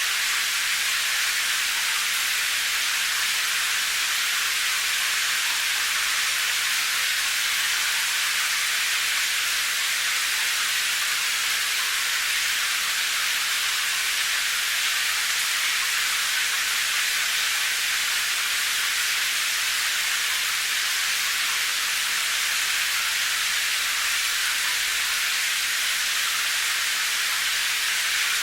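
Steady rain falling, an even, unbroken hiss with little low rumble.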